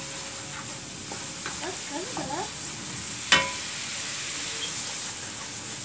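Onion and ground-spice masala sizzling in oil in a wok, stirred with a wooden spatula while it fries down with a splash of water. About three seconds in, one sharp knock of the spatula against the pan.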